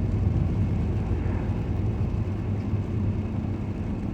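Steady road and engine noise of a moving car, heard from inside the cabin as a low rumble.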